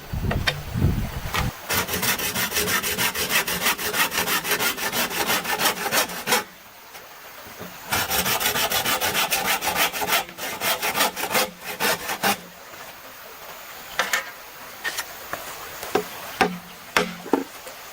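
A hand saw cutting bamboo in two runs of quick back-and-forth strokes, about four seconds each, with a short pause between. There is a dull thud at the start and a few scattered knocks near the end.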